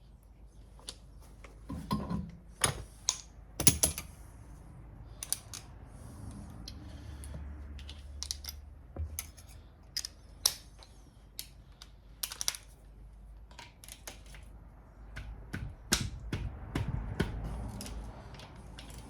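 Irregular clicks, clinks and knocks of hand tools and metal engine parts being handled while components are taken off an engine, with a few louder knocks.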